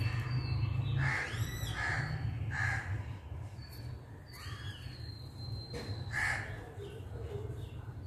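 A bird calling several times in short calls, over a low steady hum.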